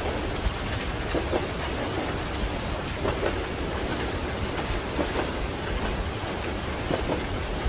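Steady rain with scattered individual drops, over a continuous low rumble of a moving train.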